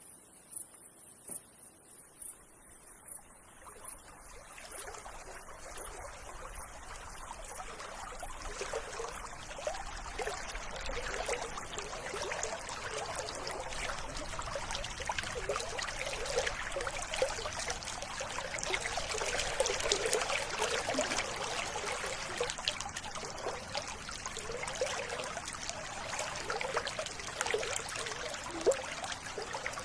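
River water trickling and babbling, fading in over the first several seconds and growing steadily louder before holding level. A faint, high chirp repeats a few times a second at the start and is lost once the water comes up.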